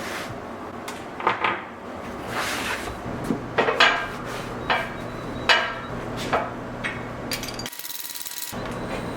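Hand-tool work on metal: a series of knocks and scrapes, about eight in six seconds, over a steady low hum, cutting out briefly near the end.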